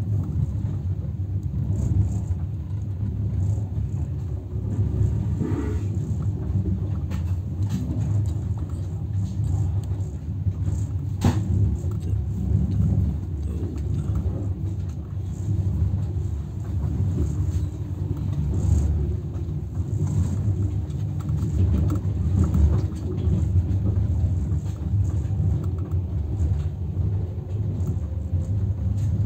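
Passenger train in motion: a low, steady rumble, with a single sharp click about eleven seconds in.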